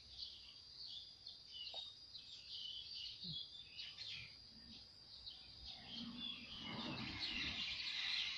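Small birds chirping over faint outdoor background noise, with a steady high hum beneath. The background noise swells about six seconds in.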